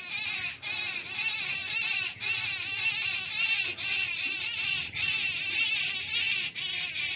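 A flock of small birds chirping all together in a dense, continuous chatter of overlapping high chirps.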